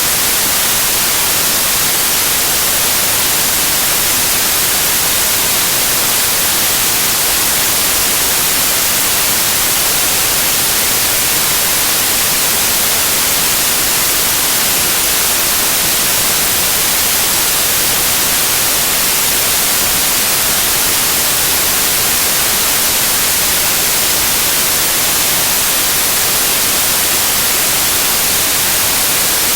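Loud, steady white noise: an even, unchanging hiss, brightest in the high frequencies.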